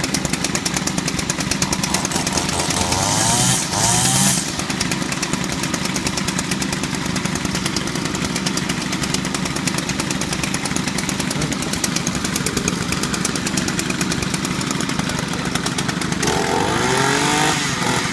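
Small gas string trimmer engine running steadily after a cold start. It is given throttle and revs up about three to four seconds in, and again near the end.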